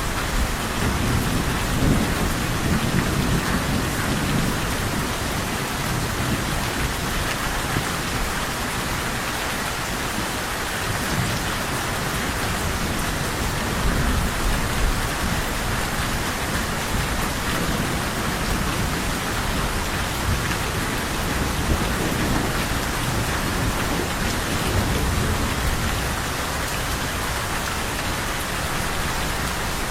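Steady heavy rain pouring down, with low rolling thunder swelling up underneath several times.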